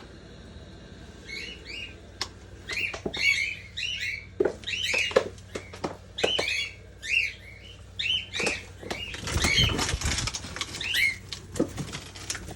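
Small parrots chirping over and over in short arched calls, with wings fluttering and light clicks around them. A dull thump about nine and a half seconds in.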